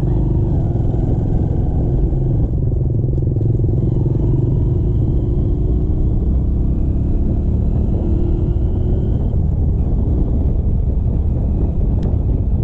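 Motorcycle engine running steadily while riding on the road, under a loud, steady low rumble, with the engine note drifting up and down a little.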